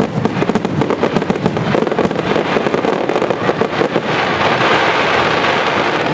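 Fireworks exploding in rapid succession, a dense barrage of overlapping bangs and crackles; about four seconds in it thickens into a steady crackle.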